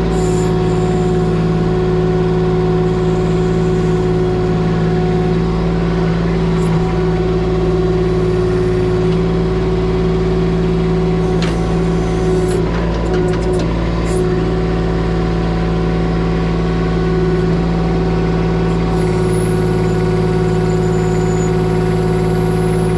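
Engine of a Kubota machine running steadily at one constant speed, with a few short sharp clanks around the middle.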